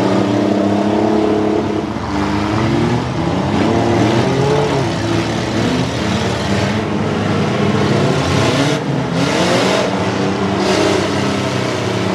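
Several demolition derby engines running and revving at once, their pitches rising and falling against each other as the minivans and pickup push and ram. A burst of rushing noise about nine seconds in.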